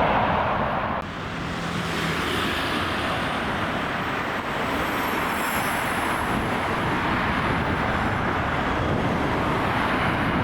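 Jet airliner engine noise: a steady rush, with a faint high whine about halfway through. The sound changes abruptly about a second in.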